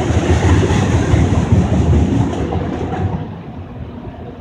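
Auto rack freight train rolling past at about 45 mph: a steady rumble and clatter of wheels on rail that eases off about three seconds in.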